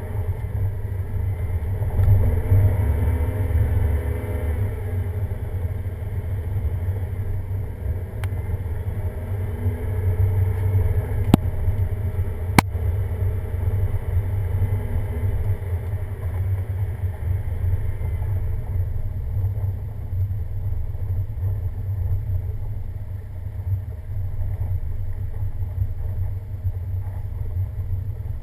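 Road vehicle driving: a steady low rumble of engine and tyres, with the engine note wavering a little in the first few seconds and again around the middle. Two sharp clicks about a second apart come near the middle.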